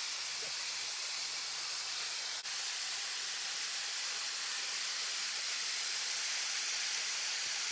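Steady rushing hiss of a tall waterfall's falling water.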